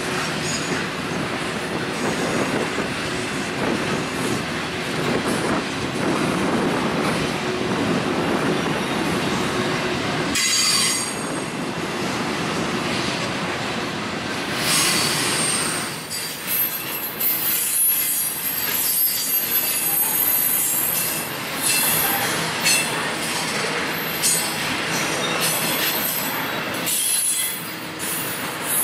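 Double-stack intermodal freight train rolling past, its steel wheels rumbling and clattering over the rails. From about halfway through, high-pitched wheel squeal comes in and out over the rumble.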